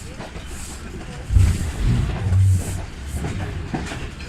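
Passenger train rolling into the station, its wheels clattering over the rail joints over a low rumble that swells louder for a second or so near the middle.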